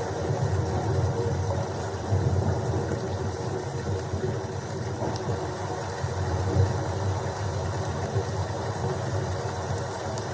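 Steady rainstorm noise with a continuous low, fluctuating rumble and a few faint high ticks.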